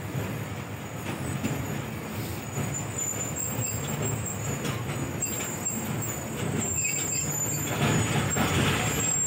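Passenger train coach running along the track, heard from its open doorway: a steady rumble of wheels on rail with a rush of air and scattered light clacks. The rushing grows louder about eight seconds in.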